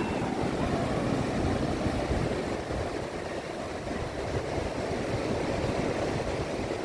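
Steady rushing noise of sea surf mixed with wind on the microphone, even and unbroken.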